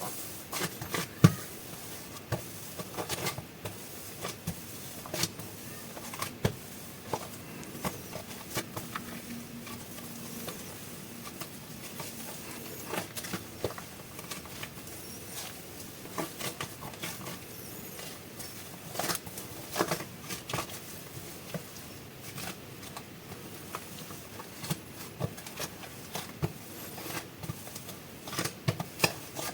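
Hands handling soft air-dry super clay and its plastic packaging: irregular soft crackles, crinkles and light taps, with a sharper click about a second in.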